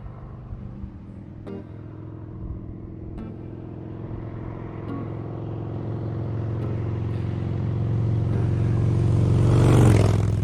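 Harley-Davidson Sportster bobber's V-twin engine running at a fairly even pitch, growing steadily louder and loudest just before the end.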